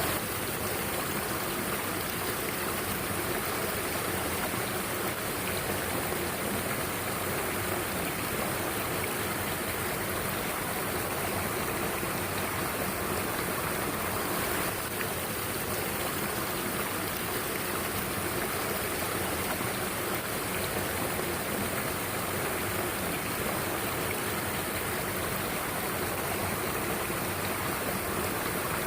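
Mountain stream water rushing steadily over rocks, a constant even hiss of flowing water.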